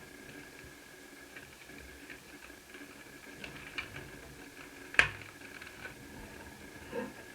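Small clicks and light scratching from handling the parts of a laptop cooling fan being taken apart, with one sharp click about five seconds in and a softer knock near the end, over a faint steady high whine.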